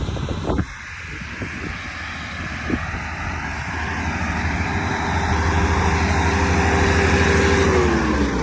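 Tractor mower engine running steadily, growing louder, with its pitch falling near the end.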